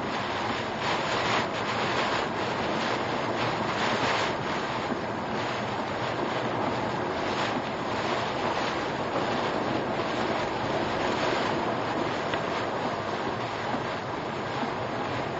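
Typhoon wind and rain buffeting a car, picked up by its dashcam: a steady rushing noise that swells and eases in gusts.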